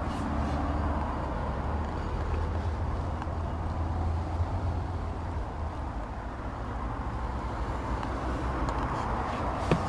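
Low, steady rumble of a running motor vehicle engine with road noise, easing off over the seconds, then a couple of short knocks near the end.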